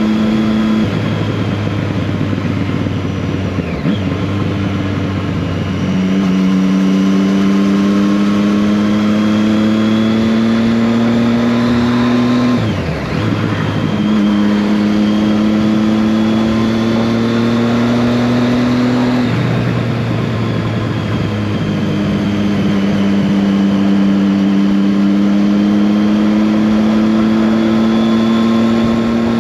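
Triumph Street Triple 675R's inline three-cylinder engine under way, its pitch climbing slowly through long pulls. It briefly drops off twice, about twelve and nineteen seconds in, as it shifts gear.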